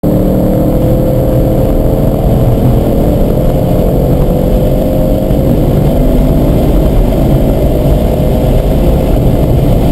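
Car engine pulling at full throttle in fourth gear, its pitch rising steadily as the revs climb from about 4,500 to 6,700 rpm under hard acceleration.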